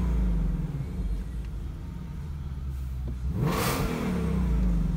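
The supercharged 5.2-litre V8 of a 2020 Ford Mustang Shelby GT500, parked and being revved, heard from inside the cabin with the windows down. The revs fall back to idle from a blip with the exhaust in Quiet mode. About three seconds in, the engine is revved sharply again in Normal mode and falls away.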